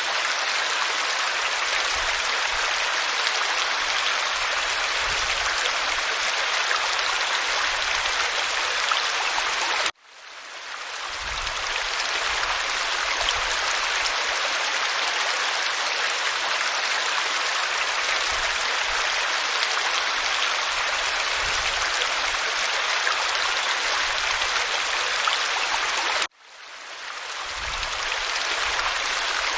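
Waterfall pouring onto rock: a steady hiss of falling water, which cuts out suddenly twice and swells back in over a second or two each time.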